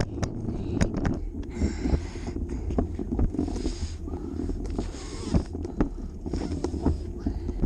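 Wind rumbling on the microphone during a bicycle ride, with frequent short knocks and rattles.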